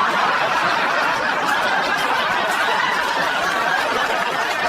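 Crowd laughter, a dense steady wash that cuts off suddenly just after the end.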